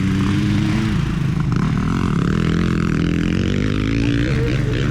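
Motocross dirt bike engine revving on the track, its pitch rising and falling with the throttle, with a steadier stretch in the middle.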